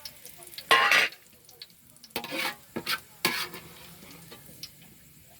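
A spoon stirring and scraping through a pan of hot oil where onions are frying, with four scraping strokes, the loudest about a second in, over a light sizzle with small crackles.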